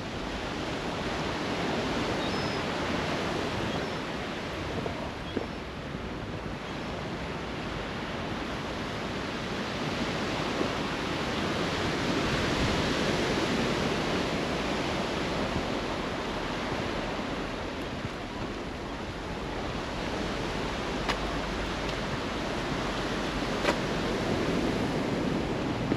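Sea waves washing onto the beach: a steady rushing that swells and eases over several seconds at a time, with a few faint clicks.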